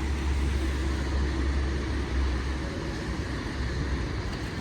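Steady road traffic noise from a city street, with a low rumble that eases after about three seconds.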